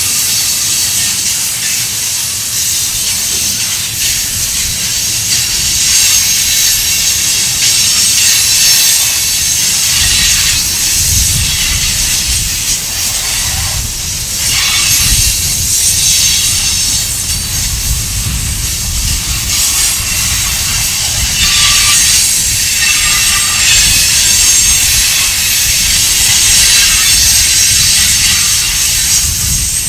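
Tank cars of a freight train rolling past close by: steady wheel-on-rail noise with a hiss, swelling and easing every few seconds. A deep rumble joins about a third of the way through, and there are two short faint high tones past the middle.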